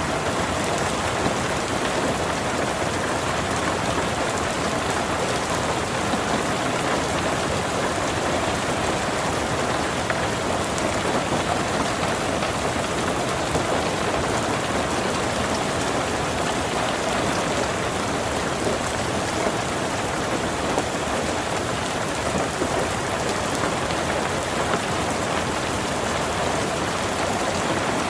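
Steady rain falling on a garden, a dense even patter of drops on leaves and surfaces.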